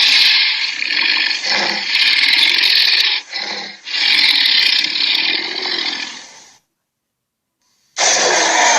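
Harsh, raspy growling creature sound effects in long bursts. They cut off to dead silence about two-thirds of the way through, and a new burst starts near the end.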